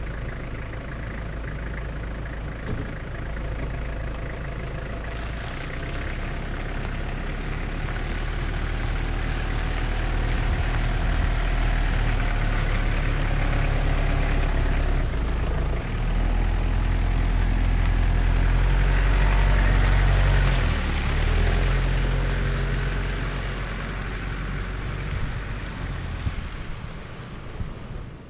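A motor vehicle's engine running, its low hum shifting in pitch in steps and growing louder until about twenty seconds in, then easing off.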